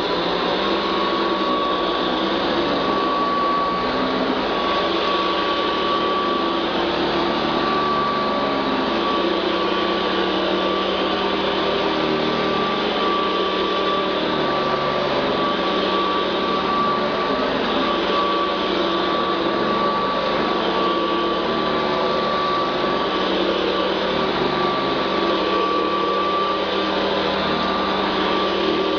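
Hoover Convertible U4401 upright vacuum cleaner running steadily on carpet, with a steady high whine over the rush of air.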